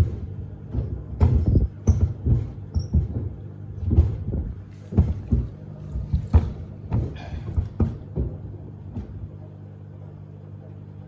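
Samsung WD70T4047CE front-loading washer-dryer tumbling two pairs of sneakers: the shoes hit the drum in irregular heavy thumps over a steady hum. The thumps stop about nine seconds in, as the drum pauses, leaving only the hum.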